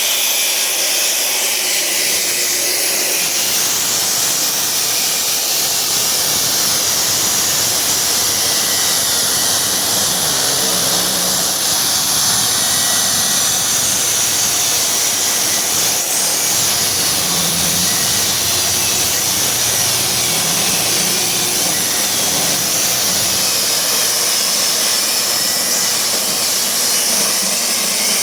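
Table saw running at full speed and ripping rough oak boards down to thickness, a steady loud high-pitched whine mixed with cutting noise.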